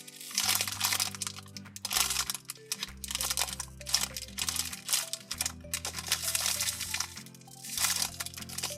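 Crinkling, crunching handling noise in a run of irregular bursts as an Orbeez-filled squishy toy is squeezed and handled, over soft background music with held notes.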